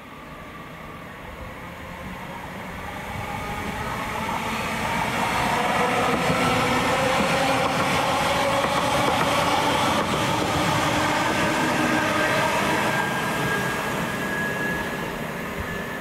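A train passing along the line: it grows louder over the first five seconds, runs by steadily, and fades near the end, with several steady humming tones over the rush of the wheels on the rails.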